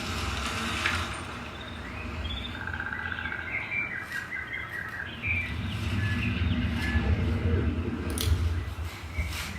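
Recorded birdsong chirping from a Dolby surround-sound test track, played back through a Sony HT-IV300 5.1 home theater speaker system, over a steady low rumble. A few sharp ticks come near the end.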